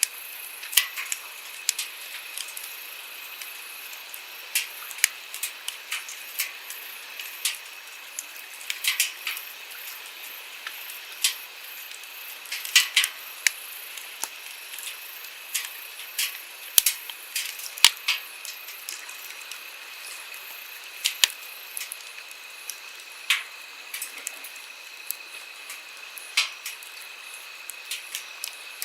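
Wood campfire crackling, with irregular sharp pops, over the steady rush of a flowing stream.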